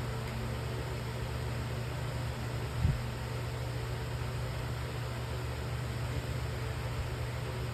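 Steady low hum with a hiss over it, like a fan or motor running, and one brief thump about three seconds in.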